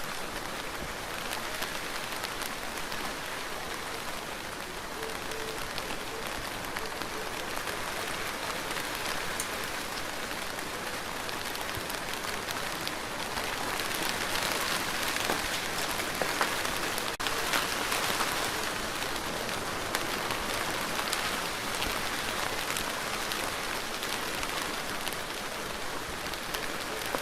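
Steady rain falling on a surface, with a dense patter of individual drops; it grows a little heavier for a few seconds past the middle.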